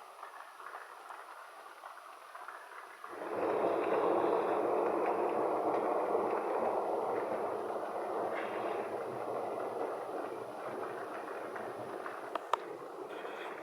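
Thunder recorded on a smartphone: after a few seconds of quiet with faint crackles, a sudden loud rumble breaks in about three seconds in and slowly dies away.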